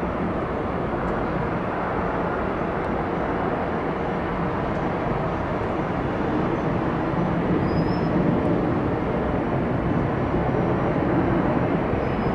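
Boeing 767-300 jet engines at takeoff power as the airliner departs, a steady rushing noise that grows slowly louder.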